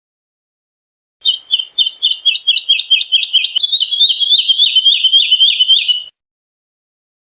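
Woodlark singing one phrase of about five seconds, starting a second in: a fast run of repeated notes that slowly falls in pitch.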